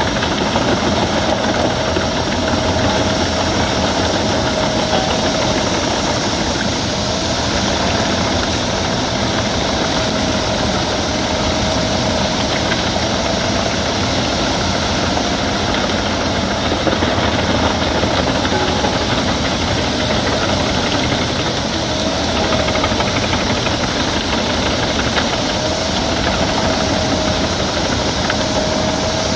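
Albach Diamant 2000 wood chipper running steadily as it chips branches: a loud, continuous machine noise with a faint wavering whine.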